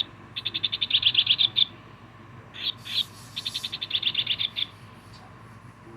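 Electronic chirping from a stuffed toy bird, set off by pressing its tummy: two runs of rapid chirps, about ten a second.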